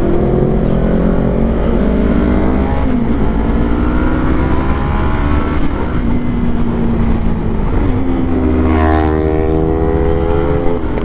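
Sportbike engine under way, its revs climbing and then dropping several times as it shifts through the gears. About nine seconds in there is a brief sharp sweep up and down in pitch.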